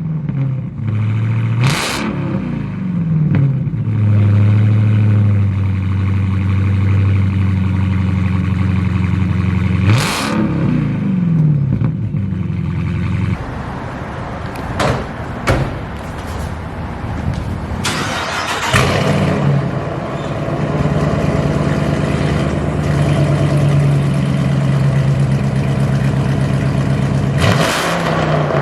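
Hemi V8 car engine with an open aftermarket exhaust, idling loudly and revved in quick blips several times, each rev falling back to idle.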